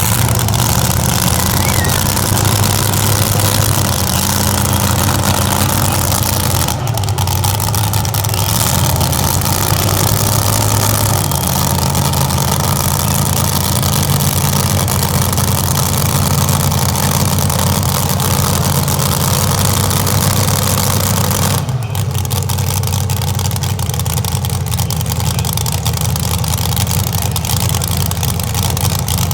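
Old Dodge pulling truck's engine running loud and continuous during a truck pull, its pitch shifting up and down a few times as the revs change.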